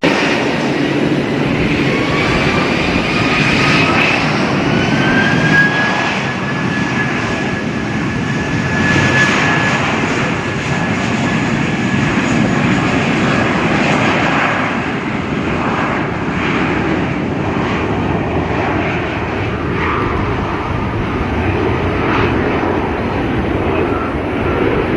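Airliner jet engines running loud, with a whine that rises over a few seconds near the start and then holds steady, typical of engines spooling up to high thrust.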